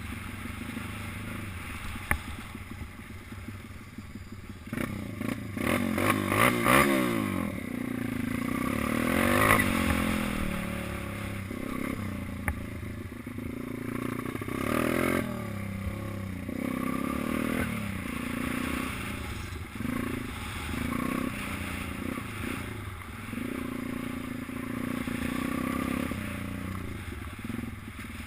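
Small minibike engine revving up and down repeatedly as it is ridden round a track, loudest a few seconds in and again about halfway through, with some clatter.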